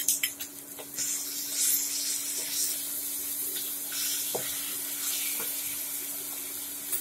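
Green peas with ginger-garlic paste sizzling in hot oil in an aluminium kadai while being stirred with a wooden spatula, with a few light knocks of the spatula on the pan at the start. The sizzle swells about a second in and then holds steady.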